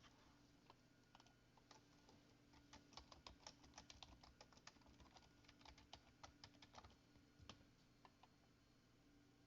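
Faint typing on a computer keyboard: a run of quick keystrokes, most of them between about three and seven and a half seconds in.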